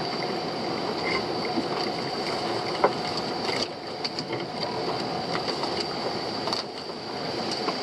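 Small fishing boat's engine running steadily, with a few short knocks and clatters as a crab pot is handled.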